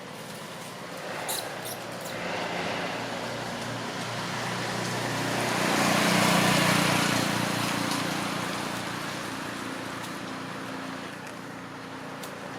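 A motor vehicle passing by, its engine and tyre noise growing louder to a peak about halfway through and then fading away, with a few brief clicks near the start.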